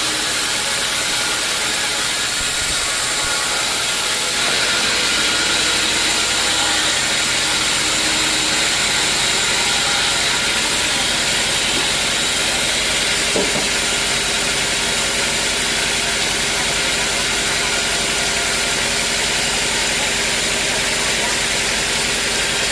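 Sawmill machinery running steadily: a continuous motor drone with a hiss over it, getting a little louder about four seconds in.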